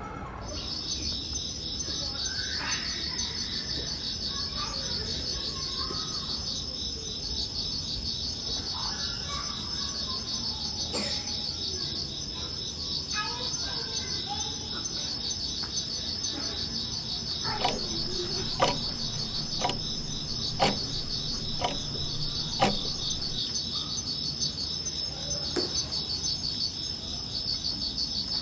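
Cricket chorus: a steady, high, evenly pulsing chirring. A handful of sharp clicks comes in the middle of it.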